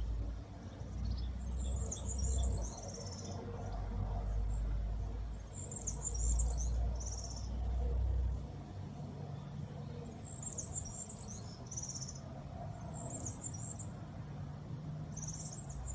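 A small bird singing short, high chirping phrases about every four seconds, each ending in a quick even trill, over low rumbling swells.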